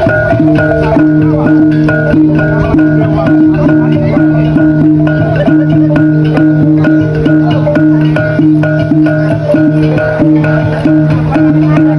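Music of struck, tuned percussion ringing over sustained low tones, playing a fast, steady repeating rhythm.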